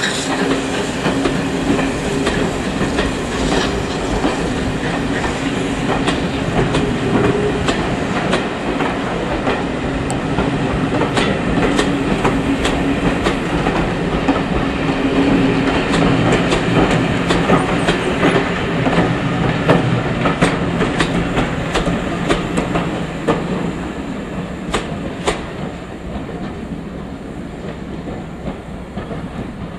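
Railway passenger coaches rolling past at low speed, their wheels clicking over the rail joints above a steady rumble. The sound fades over the last several seconds as the end of the train goes away.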